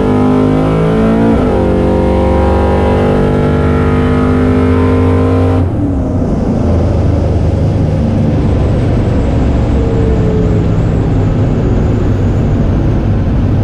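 Ford FE V8 of a 1968 Ford Falcon drag car, heard from inside the cabin, pulling hard at full throttle with its pitch climbing. A gear change drops the pitch about a second in. About six seconds in the throttle is cut sharply, and the engine falls back to a low rumble over road and wind noise as the car coasts down.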